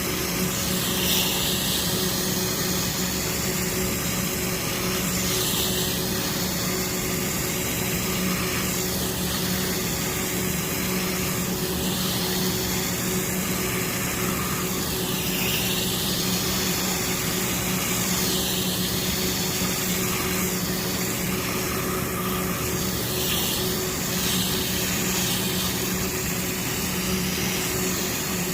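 Water spraying onto an air conditioner's condenser coil from a motor-driven sprayer during coil cleaning: a steady motor hum under a constant hiss that swells and shifts every few seconds as the spray moves across the coil.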